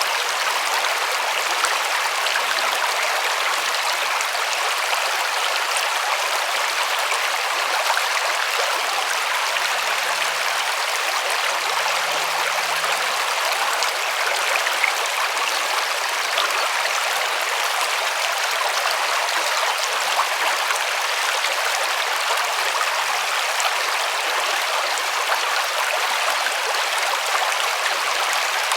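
River water rushing and splashing over rocks, a steady even rush with no change.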